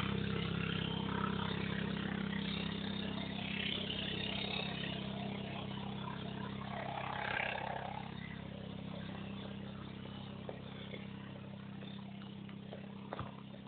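Large four-rotor cargo drone's rotors droning with a steady low hum, slowly fading as it flies away.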